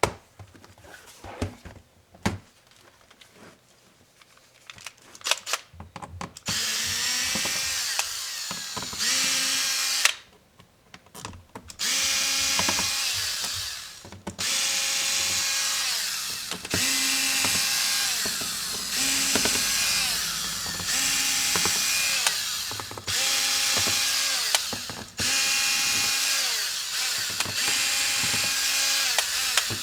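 Small electric screwdriver motor backing out laptop screws in repeated runs of one to four seconds, its whine rising as it spins up and falling as it stops. A few light clicks and taps of handling come in the first seconds.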